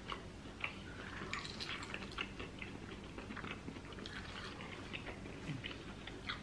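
Close-miked chewing of meat, with small wet clicks and lip smacks scattered irregularly through it.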